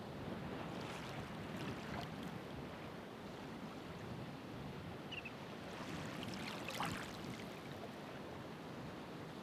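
Ocean waves washing in, a steady rushing surf with one wave breaking and splashing more strongly about seven seconds in.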